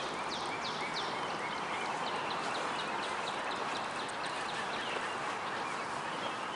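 A bird calling a rapid series of short, high, falling chirps that fade out after about four seconds, over a steady outdoor hiss.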